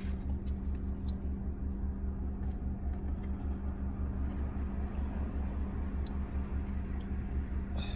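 A steady low mechanical hum with an even throb, with a few faint clicks of someone chewing a bite of corn dog.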